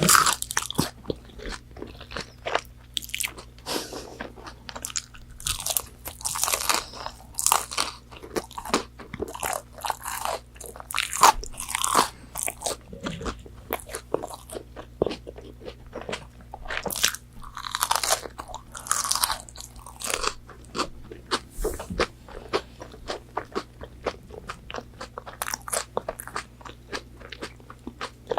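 Close-miked eating: crisp fried chicken nuggets bitten and chewed, with irregular wet crunching and crackling, several louder crunches amid continuous chewing.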